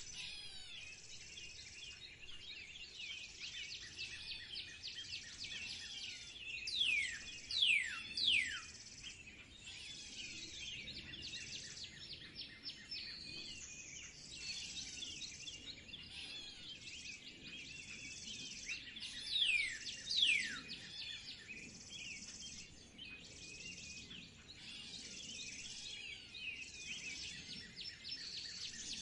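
Several wild birds chirping and calling together, busy and continuous. Sharp falling whistles stand out, loudest in a cluster about seven seconds in and again about twenty seconds in.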